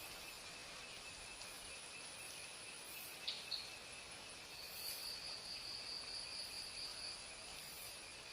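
Steady high-pitched insect chorus of crickets or cicadas, a continuous shrill trilling in which one strand drops out for a while and comes back. Two very short sharp chirps, a fraction of a second apart, stand out a little over three seconds in.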